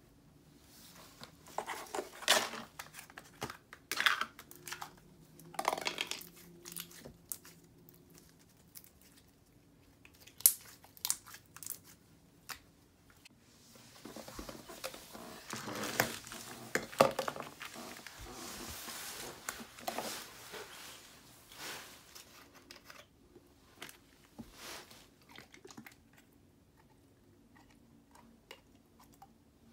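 Plastic bags of slime crinkling and slime being squished and pulled by hand: irregular short crackles and sticky sounds, busiest in the middle stretch.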